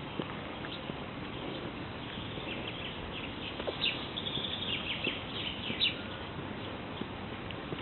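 Wild birds singing and chirping, a run of quick high chirps from about four to six seconds in, over a steady background hiss.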